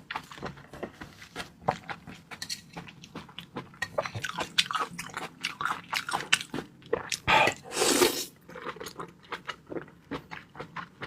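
Close-up mouth sounds of a person eating raw seafood: wet chewing with many quick smacks and clicks. A louder, longer noisy sound of about a second comes about seven seconds in.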